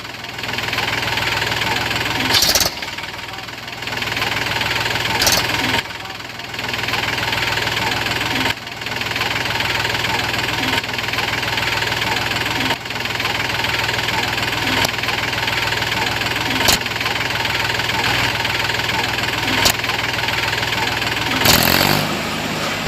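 Homemade mini tractor's small engine running steadily, with a few sharp clicks and abrupt breaks in the sound. Its pitch steps up briefly near the end.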